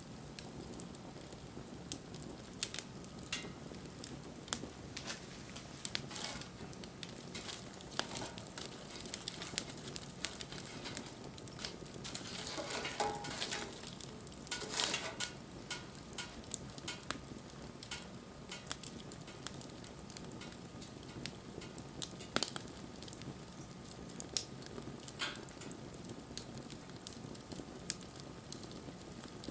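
Wood fire burning: a steady low hiss with frequent sharp crackles and pops, and a denser run of sizzling crackles about halfway through.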